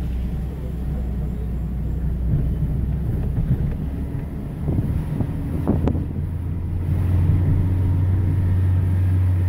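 Car engine and road noise heard from inside the cabin while driving slowly; about seven seconds in, the engine's low hum rises in pitch and gets louder as the car speeds up.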